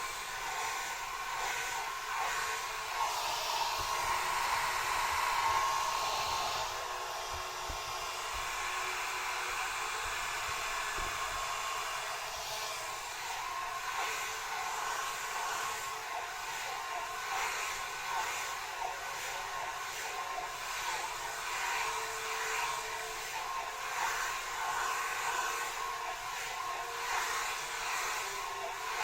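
Hand-held hair dryer blowing steadily, a continuous rushing hiss with a faint whine, switched off right at the end.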